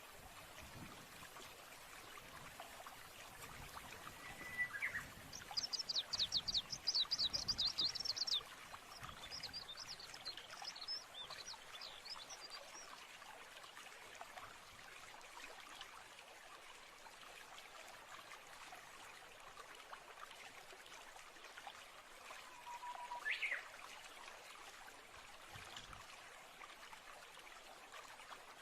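Steady trickling stream with songbirds: a fast, high trill from one bird about five seconds in, scattered chirps after it, and another short call later.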